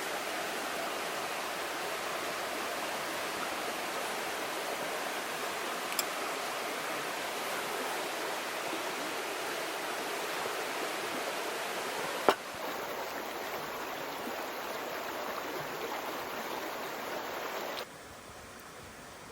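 River water flowing, a steady rushing sound. A sharp click about two-thirds of the way through, after which it is slightly quieter; near the end it drops to a much fainter hiss.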